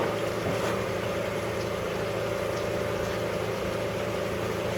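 An engine running steadily: an even hum made of several constant tones, with no change in speed.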